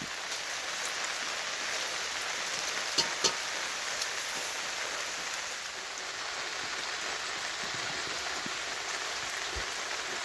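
Steady rain falling, an even hiss, with two sharp drip-like taps about three seconds in.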